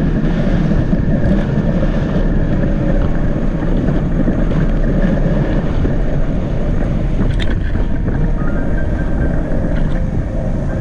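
Wind buffeting the microphone while riding a bicycle: a loud, steady rush heaviest in the low end.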